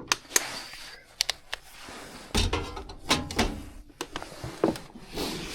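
A run of sharp clicks and knocks with rustling between them: hands working at a gas furnace's cabinet during a power reset.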